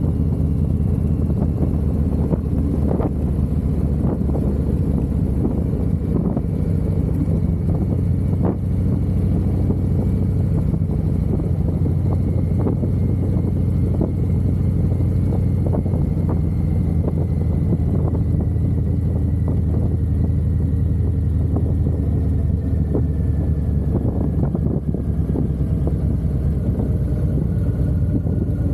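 Harley-Davidson V-twin motorcycle engine running while riding, held at a steady engine speed without revving.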